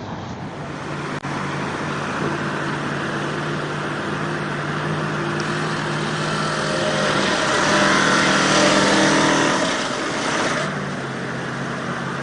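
Heavy vehicle engine running steadily, then revving up under load about seven seconds in and easing off suddenly shortly before eleven seconds.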